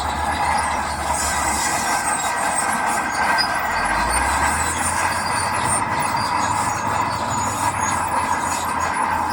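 A heavy earthmoving machine's diesel engine running under changing load, with a steady high metallic whine over the low rumble.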